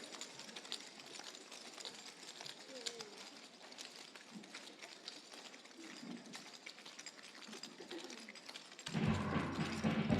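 A low background of faint voices and small rustles and clicks. About nine seconds in, bagpipe dance music starts, louder, over a steady drone.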